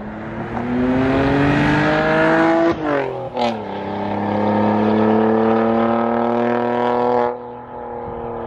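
A car accelerating hard, its engine pitch climbing through one gear and dropping at a shift about three seconds in, with a short sharp sound at the change. It then climbs more slowly in the next gear until the throttle closes about seven seconds in.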